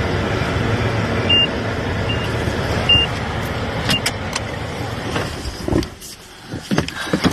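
Steady car-interior road and engine noise, with four short high electronic beeps from the car about a second apart. About six seconds in the rumble drops away, as when the car stops, leaving a few clicks and knocks.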